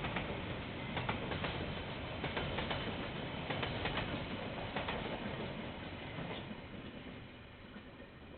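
Train passing on the rail line, a steady rumble with irregular clicks and clatter from the wheels, fading away over the last couple of seconds. Heard through a security camera's microphone, thin and muffled.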